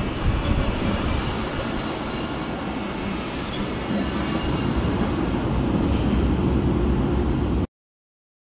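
Electric trains rolling slowly along the tracks: an ICE high-speed train passing close by while an Intercity train behind a DB Class 101 electric locomotive draws near. It is a steady rumble of wheels on rails that grows a little louder about halfway, then cuts off suddenly near the end.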